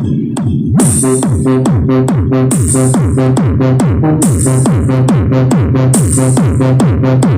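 Loud electronic dance remix played through a small competition sound system: a fast, steady beat of deep kicks that fall in pitch, over a held bass note, with a high swish recurring every second and a half or so. The beat fills in and gets louder about a second in.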